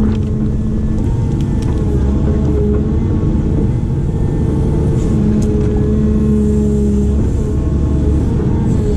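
Heavy construction machine's diesel engine running steadily under working load, with a humming tone that swells and eases a few times.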